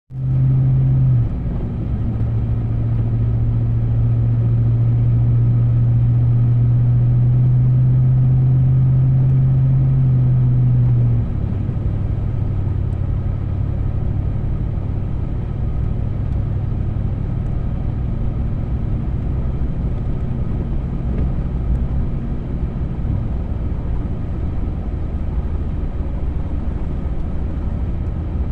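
Vehicle engine running while driving, with steady road rumble. A loud low drone holds steady, then drops in pitch and level about eleven seconds in.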